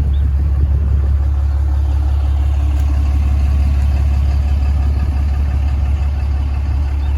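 An engine idling steadily, a loud, even low drone with no change in speed.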